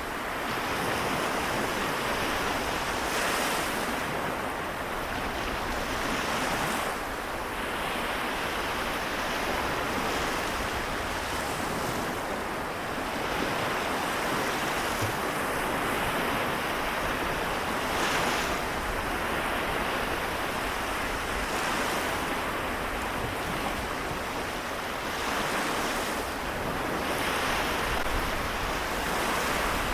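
Sea waves washing onto the shore, one swell of surf every few seconds over a steady wash of water.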